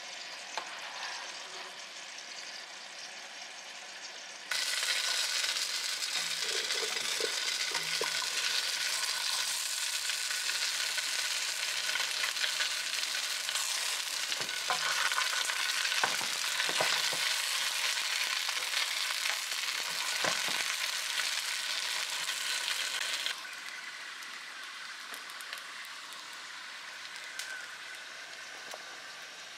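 Pierogi sizzling as they pan-fry in butter in a skillet. The sizzle jumps suddenly louder about four seconds in and falls back near the end. A few short scrapes and taps of a spatula against the pan come in the middle.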